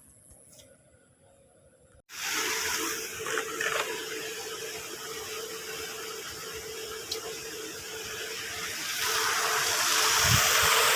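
Water rushing steadily, starting abruptly about two seconds in and growing louder near the end.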